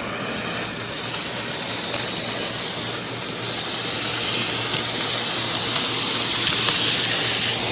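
Bissell CleanView Compact upright vacuum running, a steady rush of air over a low motor hum, with scattered light ticks of grit being sucked up. The airflow rush grows louder and brighter toward the end.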